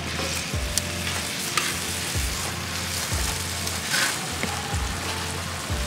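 Chicken breasts and sliced mushrooms sizzling in a hot pan, with a few light clicks of metal tongs against the pan as the chicken is set back in.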